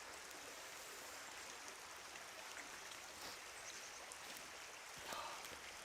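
Faint, steady rush of running water, like a small stream flowing.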